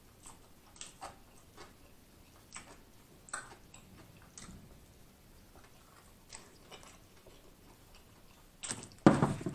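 Close-miked chewing of a mouthful of Italian beef and sausage sandwich: soft, irregular mouth clicks and smacks about once a second. A louder breath comes near the end.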